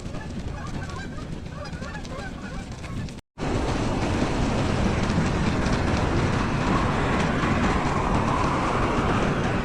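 A flock of birds calling, many short calls overlapping, with the goose-like honking of a flock. After a sudden cut a few seconds in, a louder steady rushing noise takes over.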